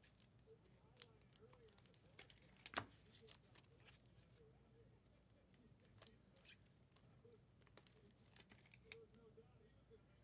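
Faint handling of trading cards and pack wrappers: scattered small crinkles and clicks, with one sharper click about three seconds in.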